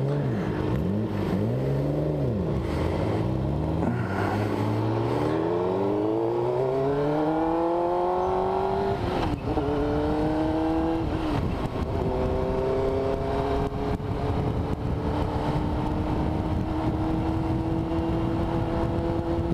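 Motorcycle engine revving up and down at low speed for the first few seconds, then accelerating with a steadily rising pitch. It is shifted up a gear twice, about nine and twelve seconds in, each shift a brief dip in the note, and then it holds a steady, slowly rising note at cruising speed.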